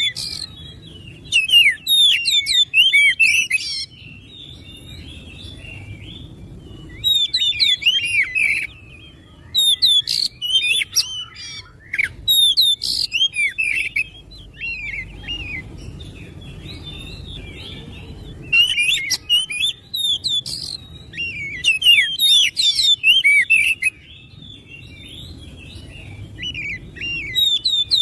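Oriental magpie-robin (kacer) singing. Its song comes in bursts of fast, varied whistles and chatter, one to five seconds long, separated by short pauses in which a faint low hum remains.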